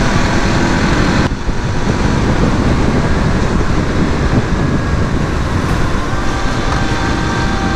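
Motorcycle riding at road speed on a highway: continuous wind rumble on the microphone mixed with engine and tyre noise. The high hiss drops abruptly a little over a second in.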